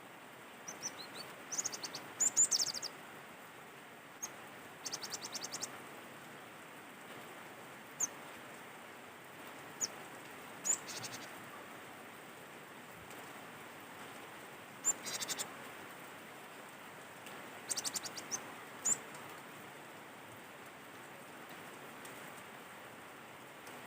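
Cinereous tit (gelatik batu) calling: short high chirps and quick runs of rapidly repeated high notes, coming every few seconds with pauses between, over a steady background hiss.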